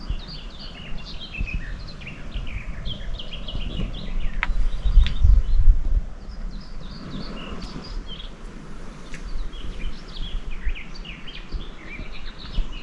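Many small birds chirping continuously in a busy chorus of short, high notes, over a low rumble that swells about four to six seconds in, with a few sharp clicks.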